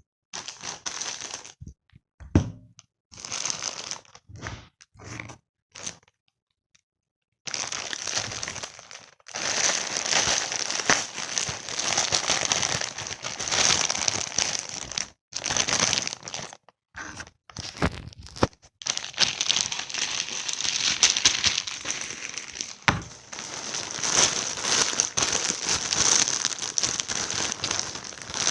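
Packaging crinkling and tearing as a plush toy is unboxed. It comes in short bursts with gaps for the first six seconds, stops briefly, then becomes near-continuous rustling and crinkling from about seven seconds in. A few sharp knocks stand out.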